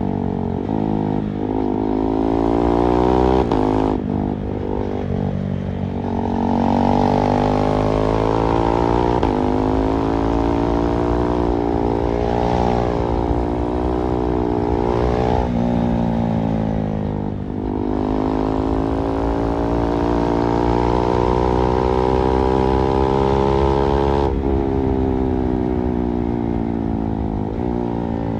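KTM 390 Duke's single-cylinder engine, heard from the rider's position while riding. Its pitch climbs and eases off repeatedly, with a few sudden drops, over a steady hiss of wind noise.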